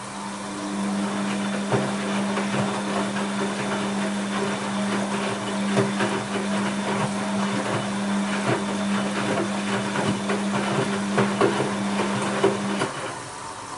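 Bosch WAB28220 washing machine turning its drum during a quick wash: a steady motor hum with wet laundry sloshing and thudding in the drum, amid many scattered knocks. The drum stops near the end.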